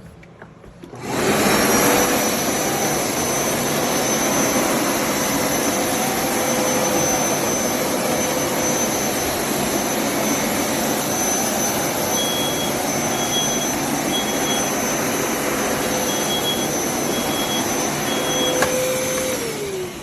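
Hoover Power Scrub Deluxe upright carpet cleaner (FH50150) switching on about a second in and running with a steady whine. Near the end it switches off and its pitch drops as the motor winds down.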